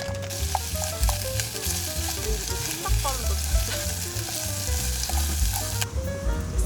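Food sizzling in a frying pan, a steady hiss that cuts off suddenly near the end, under background music.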